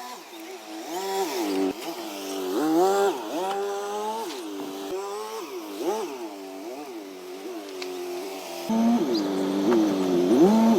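Restored car's engine revved again and again, its pitch rising and falling about once or twice a second. Near the end a louder, deeper running sound joins in.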